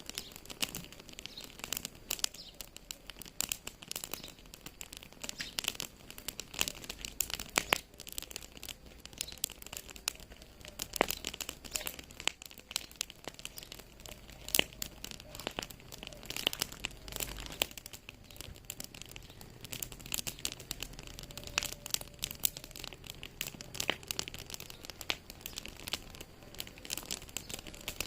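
Fire in a fireplace crackling, with dense, irregular pops and snaps over a soft steady hiss.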